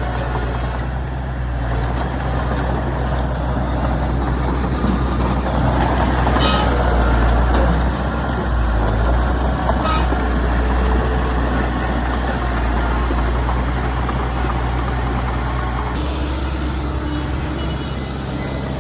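Heavy diesel engine of earthmoving machinery running steadily, with two short sharp clicks about six and ten seconds in.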